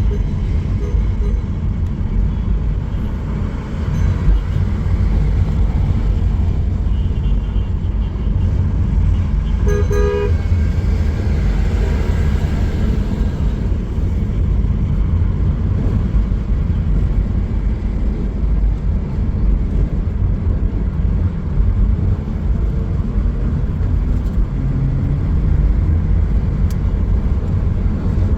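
Street traffic: a steady low rumble of passing vehicles, with a short car horn toot about ten seconds in.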